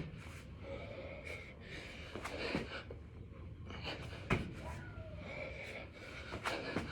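Heavy, gasping breathing of a man doing six-count burpees, with a few sharp thuds as hands or feet land on the floor.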